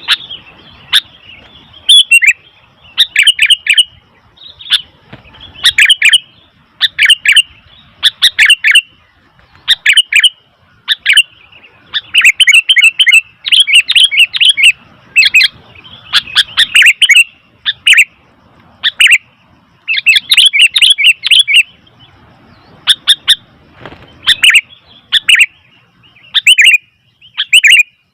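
Sooty-headed bulbuls calling noisily: loud clusters of short, sharp chirping notes, repeated every second or so with brief pauses between.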